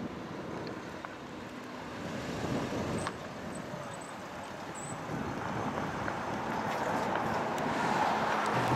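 Car engine and road noise, growing louder over the last few seconds.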